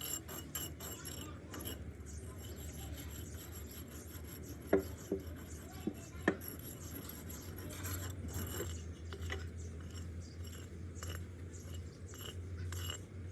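Repeated scraping and rubbing, broken by many short clicks, with a few sharper knocks about five and six seconds in, over a steady low hum.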